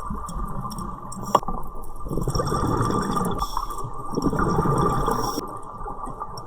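Underwater recording of a scuba diver's exhaled bubbles gurgling up from the regulator, swelling twice, with a single sharp click about a second and a half in.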